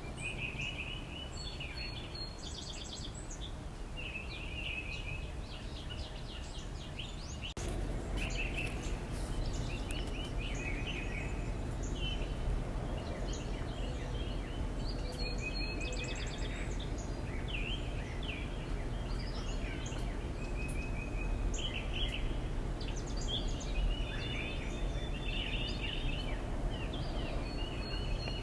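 Several small backyard birds chirping and calling in short repeated phrases over a steady low background rumble, which gets louder about a quarter of the way through.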